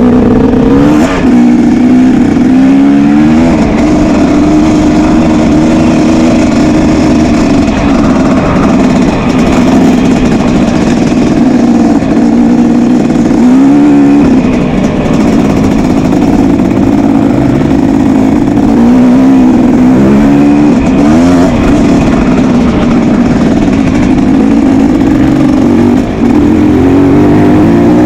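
Motocross motorcycle engines revving, rising and falling in pitch again and again as the bikes accelerate and back off.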